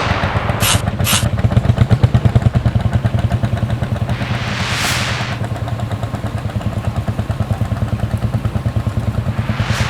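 Deutz F3L514 air-cooled three-cylinder diesel tractor engine running steadily with a fast, even throb. Two short clicks come about a second in, and a hissing whoosh swells and fades around the middle.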